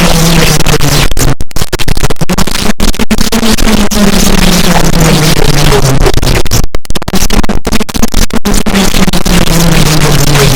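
Harsh noise music: a dense, distorted wall of noise with a low droning tone that slides downward and starts again about every four to five seconds. The noise briefly cuts out a few times.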